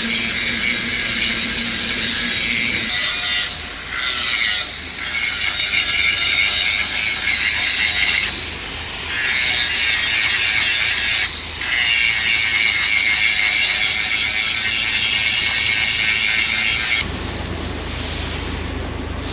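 A power tool running with a high whine that wavers in pitch and breaks off briefly several times, then stops about 17 seconds in.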